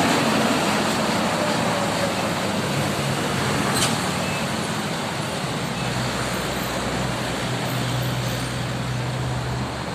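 Road traffic noise with the low, steady drone of heavy vehicle engines, the hum strongest in the second half and dropping away just before the end. A single short click about four seconds in.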